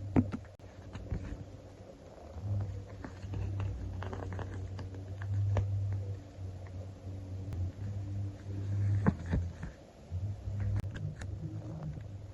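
Hands handling sticker sheets: scattered small clicks and taps of stickers being peeled and pressed down, over a low hum that swells and fades.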